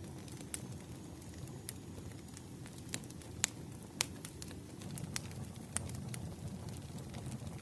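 Campfire burning: a steady low rush of flames with irregular sharp crackles and pops of burning wood, the two loudest pops about three and a half and four seconds in.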